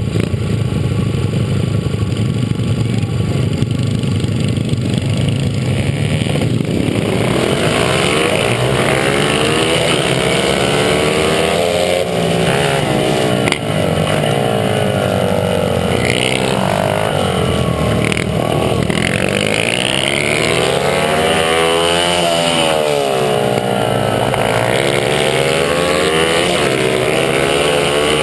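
Honda CRF50 pit bike's small single-cylinder four-stroke engine heard on board: a steady low running note for the first seven seconds or so, then the revs repeatedly climb and drop as the bike is ridden hard through gears and corners.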